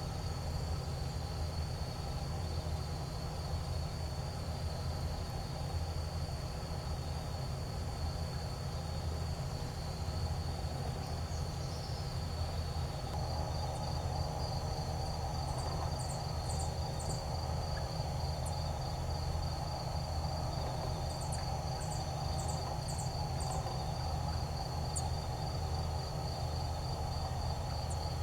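Forest ambience: a steady, pulsing high insect trill with a low rumble beneath. Two short runs of three or four very high bird chirps come about halfway through and again a little later.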